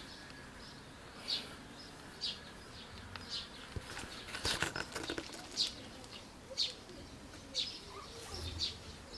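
A small bird chirping, short high-pitched calls repeated about once a second.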